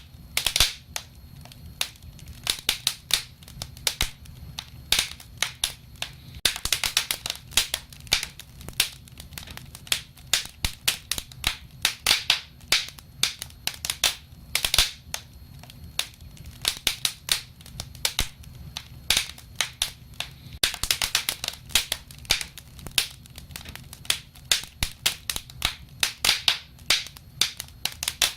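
Wood fire crackling: irregular sharp snaps and pops, often in quick clusters, over a low steady rumble.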